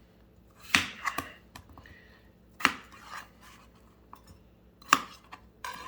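Knife chopping potatoes into large chunks on a cutting board: a few sharp chops spaced a second or two apart.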